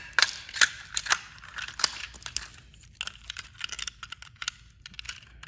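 Handling of small plastic battery toy trains: a run of irregular sharp clicks and knocks with some rustling between them.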